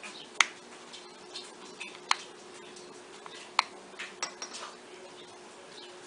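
Small hand tools working on a smartphone: four sharp clicks spread a second or two apart, with light scraping and ticking between them.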